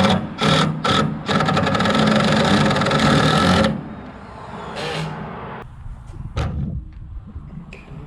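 Power screw driver running in a few short bursts and then one long run with a fast rattling hammer, driving a screw into lumber; it stops suddenly about four seconds in, followed by a couple of light knocks.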